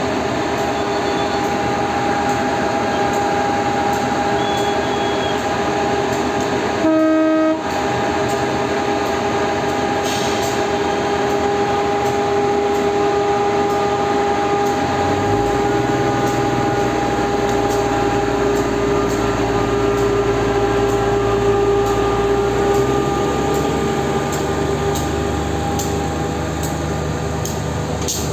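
Diesel passenger train departing: a steady engine hum throughout, one short horn blast about seven seconds in, then a deep low engine rumble coming in about halfway through as it pulls away.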